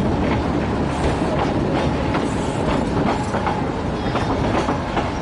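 Narrow-gauge park railway train running, heard from inside an open-sided carriage: a steady rumble of wheels on rail with irregular clicks and clatter.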